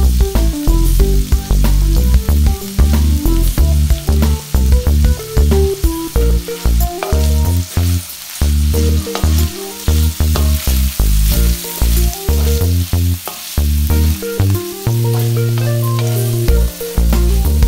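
Shredded chicken and shrimp sizzling in a hot wok while a spatula stirs and scrapes them, with clicks of the spatula on the metal. Background music with a bass line plays over it, its low notes the loudest part, with a chord held for a couple of seconds near the end.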